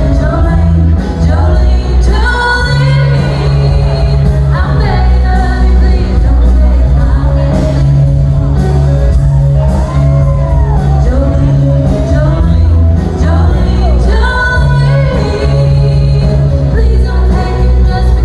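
Live country music: a woman singing over a full band with a strong, steady bass line, in a large hall.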